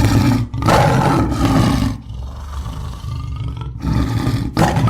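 Tiger roaring and growling: a run of loud, rough roars, each about a second long, easing to a quieter growl in the middle before roaring again near the end.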